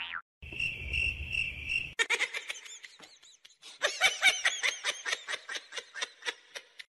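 Cricket-chirp comedy sound effect: four short, even, high chirps over a low rumble, then a few seconds of quick high chirping, several calls a second.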